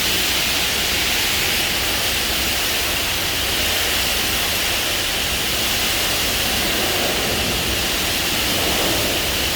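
Steady rushing hiss of pressure-washer water spray washing down a semi truck, even and unbroken throughout.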